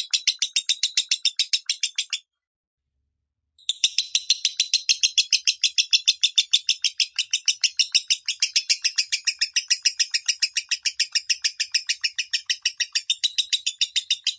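Lovebird singing its 'minor' song: a fast, even run of sharp, high chirps, about six a second. It breaks off cleanly about two seconds in and starts again about a second and a half later.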